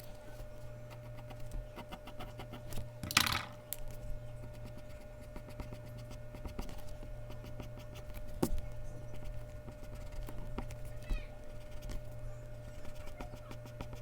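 Mechanical pencil strokes on Bristol paper: runs of short, quick scratchy strokes, with one louder rubbing sound lasting about half a second about three seconds in. A steady low hum sits underneath.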